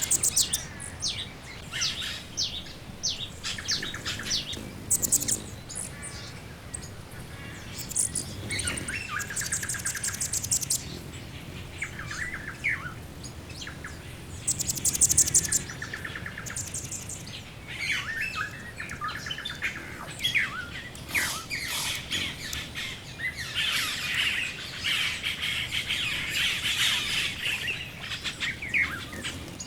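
A mixed chorus of wild birds: many short chirps and calls overlapping, with high buzzy trills now and then and a busier stretch of calling near the end.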